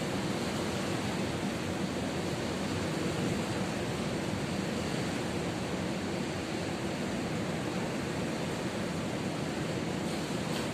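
Ocean surf: a steady, even rush of waves with no breaks.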